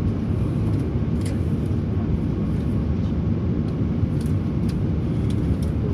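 Airbus A319 airliner cabin noise during landing: a steady low rumble of engines and rushing air, even throughout, with no distinct thump or change.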